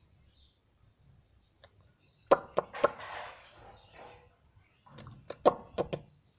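A few sharp knocks and clicks come in two clusters, about two seconds in and again near five seconds, with a brief rustle between them.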